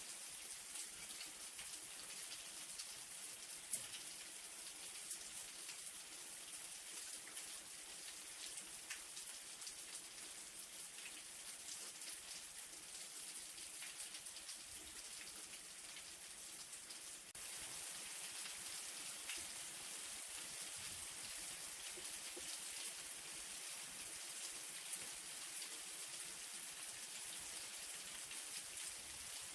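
Light rain falling steadily, a fine hiss of many small drops ticking on a surface. It gets a little louder a bit past halfway.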